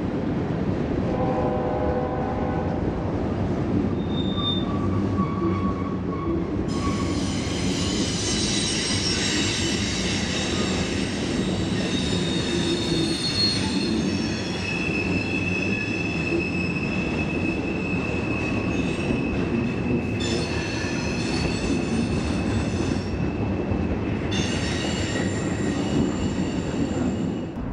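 Freight train rolling past with a steady low rumble. From about a quarter of the way in, its wheels squeal against the rails with several high, steady tones that fade and return a couple of times.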